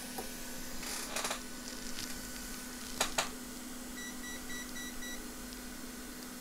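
A quick run of short, high electronic beeps from a bench device, just over a second long, about two thirds of the way in, over a steady low electrical hum. Two brief scratchy noises come earlier, about one and three seconds in, as flux is cleaned off the board.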